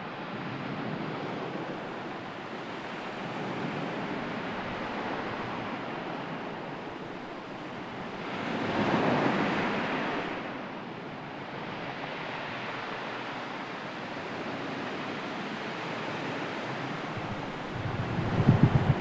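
Sea waves washing ashore in a steady wash of surf, with one louder wave swelling about halfway through and fading away. Near the end, wind buffets the microphone.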